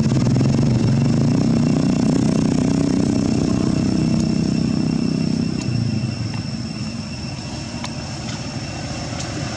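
A motor engine running, its low rumble dropping away a little over halfway through. Two thin, steady high tones continue throughout.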